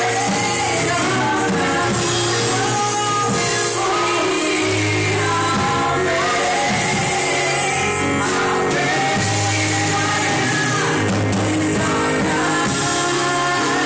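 Live church worship music: voices singing a song over band accompaniment with steady bass notes, heard with the echo of a large hall.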